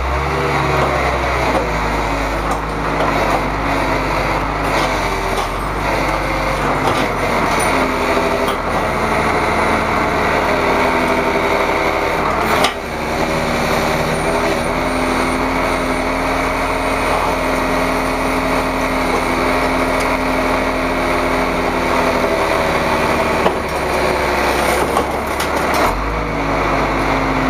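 Vehicle engines running steadily, with the engine pitch changing abruptly several times as one clip cuts to the next.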